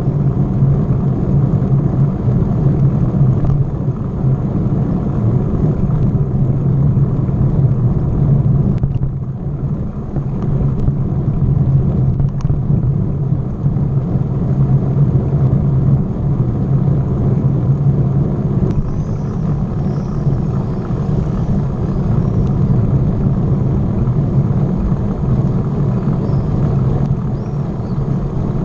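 Loud, steady low rumble of wind and road noise on a camera riding along on a moving bicycle.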